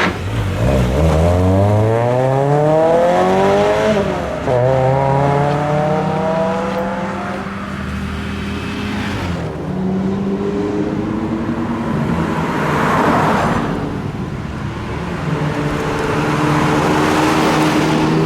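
Cars with loud, modified exhausts driving out and accelerating. An engine note climbs over the first few seconds, then climbs again just after, and steadier engine notes follow with a burst of rushing noise about thirteen seconds in.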